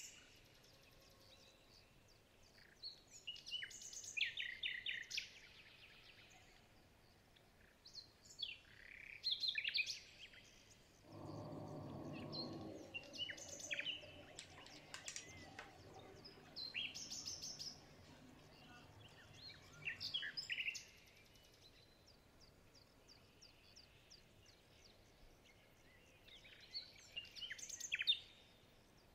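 Small birds chirping and trilling in scattered bouts of short high calls every few seconds, with a brief low hum partway through.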